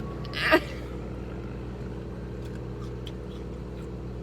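Car engine idling, a steady low hum heard from inside the cabin, with one short, sharp, loud noise about half a second in.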